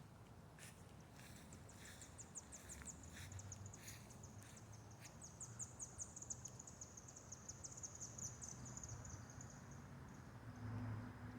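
Faint, high-pitched animal trill of rapid ticks, lasting several seconds and drifting slightly down in pitch before fading near the end. A few faint clicks are heard in the first half.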